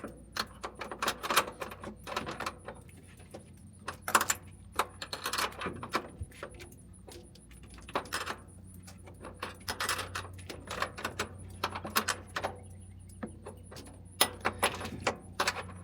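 Irregular metallic clinks and taps of a 13 mm wrench working the nut on a battery ground lug and lock washer, coming in scattered bunches.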